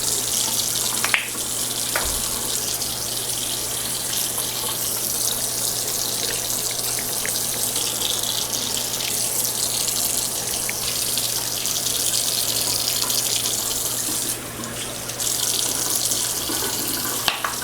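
Bathroom sink tap running steadily while a face is washed, with the stream briefly changing near the end.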